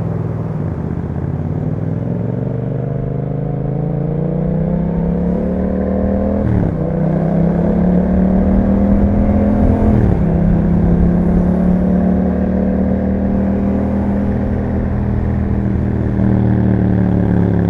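2021 Yamaha MT-07's 689 cc parallel-twin engine through an Akrapovic exhaust, accelerating with rising pitch. It shifts up about six and a half seconds in and again about ten seconds in, then holds a steady cruise.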